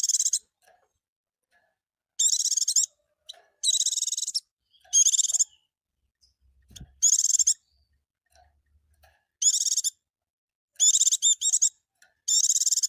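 White-eye (pleci) song: eight short, fast, high warbling phrases of about half a second each, with silent gaps of one to two seconds between them.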